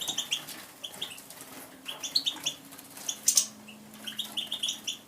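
Tame songbirds giving short, repeated chirping calls, with a brief flurry of wing-flapping about three seconds in as a bird bathes.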